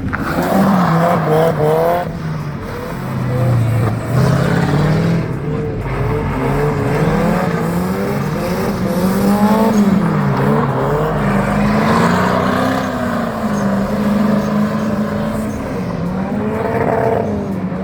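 Car engine revving up and down again and again, its pitch rising and falling every second or so.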